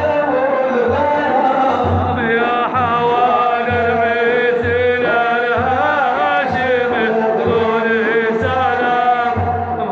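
A voice singing madih, ornamented Arabic religious praise chant with wavering melismatic lines, over a steady low drumbeat that falls roughly once a second.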